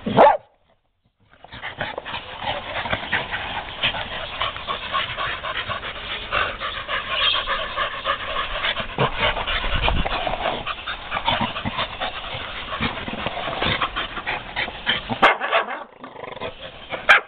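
Staffordshire bull terriers playing rough over a motorcycle tyre: a dense, continuous run of dog growls and whines mixed with scuffling. It starts after a brief silence about a second in and tails off near the end.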